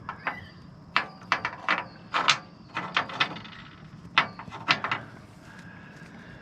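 Irregular sharp clicks and clacks of small hard objects being handled in a geocache container, such as its colourful rocks knocking together, about a dozen between one and five seconds in.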